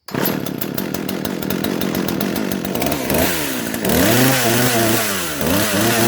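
Poulan 220 Pro 38cc two-stroke chainsaw engine running on its replacement carburetor. It runs rough and rapid at first, then its pitch sweeps up and down twice and settles into a steady note.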